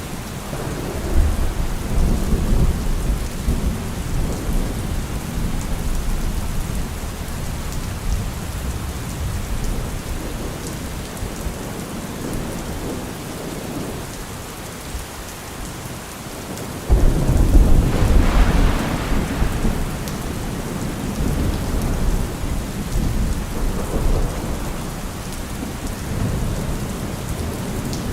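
Heavy rain falling steadily on a car roof, with thunder: a low rumble about a second in, then a sudden, louder peal about seventeen seconds in that rumbles on for several seconds.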